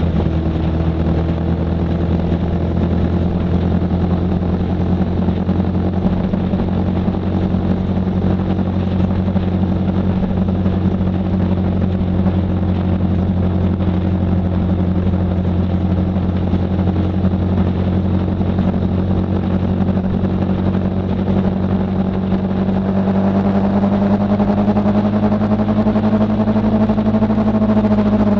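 Motorcycle engine running at a steady cruise, a constant drone over road and wind noise. Its pitch creeps up slightly near the end.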